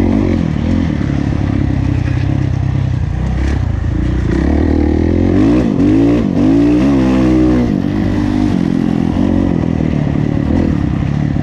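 Kawasaki KX450F four-stroke single-cylinder motocross engine at race throttle, its pitch rising and falling repeatedly as the throttle is opened and closed, most strongly around the middle.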